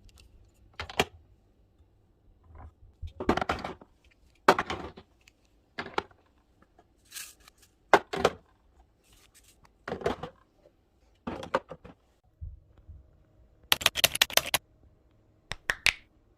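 Items being handled and set down while a refrigerator is restocked: a series of separate taps, clicks and short rustles, with a dense run of clicking rustles about 14 seconds in. A faint low hum comes in about twelve and a half seconds in.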